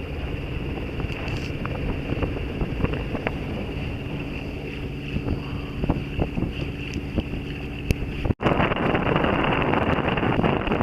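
Old Yanmar inboard diesel of a sailboat running steadily under way, with wind buffeting the microphone. A little over eight seconds in the sound cuts out for an instant, then comes back as a louder, rougher rush of wind noise.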